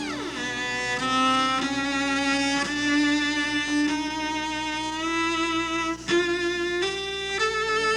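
Solo cello playing a slow melody high on the instrument, with a downward slide in pitch right at the start and the notes stepping gradually higher over the last few seconds.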